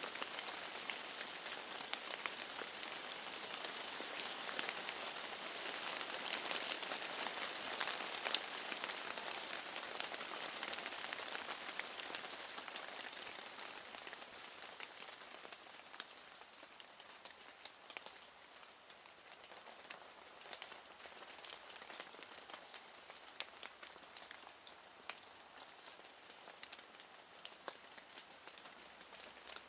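Steady rain with individual drops ticking, easing to a softer fall about halfway through.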